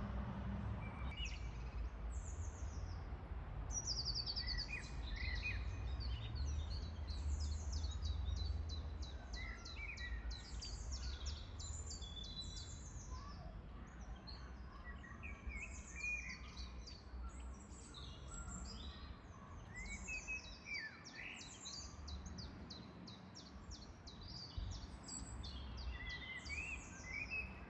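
Several small songbirds singing and calling, with many quick falling chirps and fast trills overlapping, over a steady low rumble.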